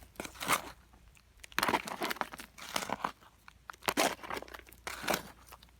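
Digging in gravelly ground to recover a metal-detector target: a series of irregular crunching scrapes, about six strokes.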